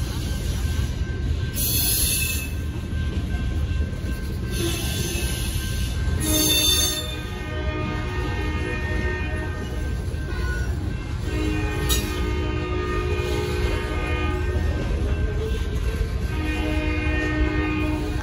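Freight cars, covered hoppers, rolling slowly over a grade crossing: a steady rumble of steel wheels on the rails, with high-pitched wheel squeal that starts about six seconds in and comes and goes, wavering in pitch.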